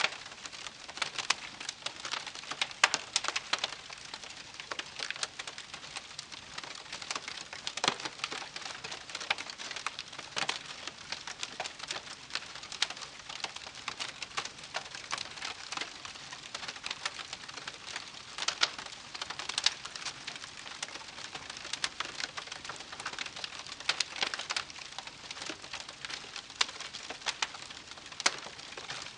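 Wood campfire crackling steadily, with frequent sharp pops and snaps at irregular intervals over a soft hiss of burning.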